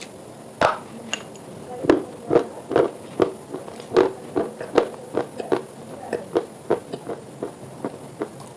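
Close-up crunching of something hard and brittle being chewed: a string of sharp crunches, about two a second, starting about half a second in.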